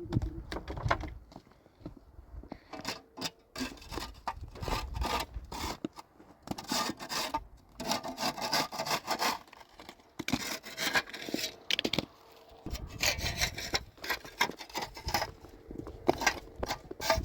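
Repeated rough scraping and rubbing strokes, irregular in length and spacing, with a couple of short pauses.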